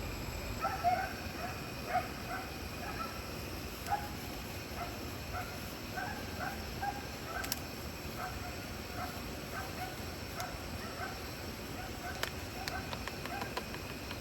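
A long run of short animal calls, repeated many times at uneven intervals, over a steady background hiss, with a few faint clicks.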